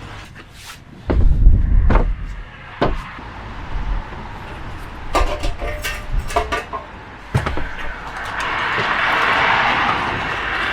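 Heavy thumps, knocks and clattering of equipment being shifted about in a work van, then a steady hiss from about eight seconds in.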